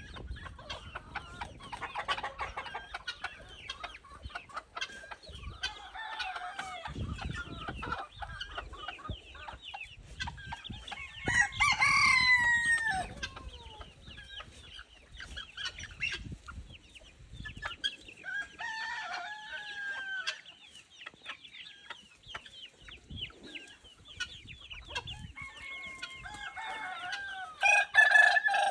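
Chickens clucking and calling throughout, with a rooster crowing loudly about twelve seconds in, the crow falling in pitch at its tail. Another loud call comes near the end.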